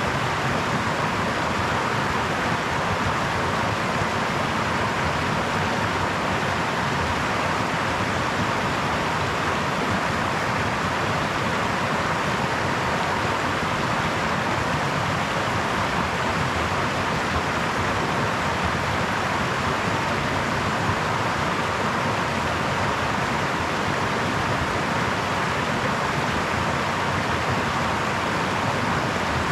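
Brook water babbling over stones, a steady even rush of running water with no change in level.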